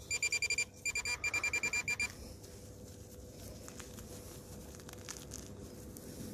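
Metal detector (pinpointing probe or coil) beeping rapidly at one high pitch, about seven beeps a second, in two runs over the first two seconds. It is sounding on a coin hidden in a dug-up clump of soil.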